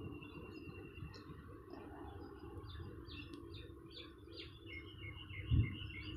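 Small birds chirping faintly in a quick series of short notes, busiest in the second half, over a low background rumble; a dull thump near the end.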